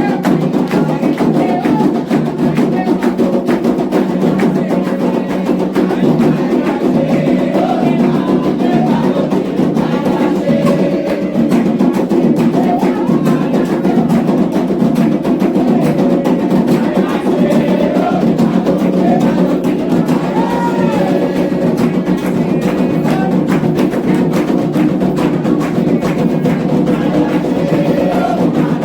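Candomblé ritual drumming on atabaque hand drums in a fast, continuous rhythm, with voices singing a chant over it.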